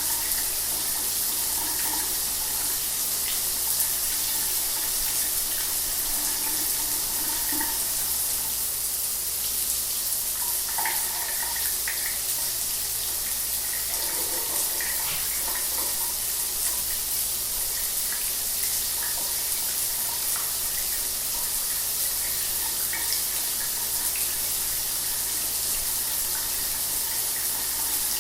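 Shower running: a steady hiss of water spraying and splashing, with small irregular splashes and a faint low hum underneath.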